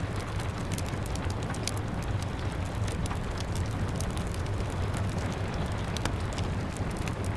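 Rain pattering on window glass, mixed with a wood fire crackling: sharp irregular pops and snaps over a steady low rumble.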